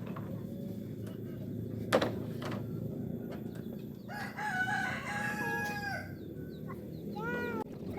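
A rooster crowing once, a long call of about two seconds in the middle, followed near the end by a quick run of about five short rising-and-falling chirps. A single sharp knock about two seconds in.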